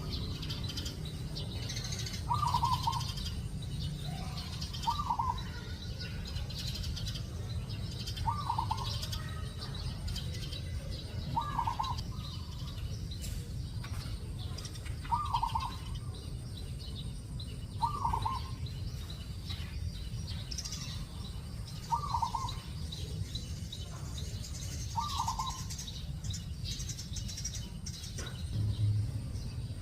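A bird giving a short call about every three seconds, eight times in all, with fainter high chirping from other small birds and a steady low rumble underneath.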